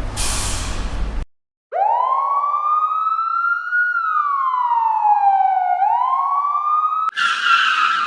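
An emergency-vehicle siren wailing: one slow rising, falling and rising-again sweep, which cuts off abruptly. It is preceded by a brief burst of hissing noise. Near the end a screech of tyres skidding cuts in.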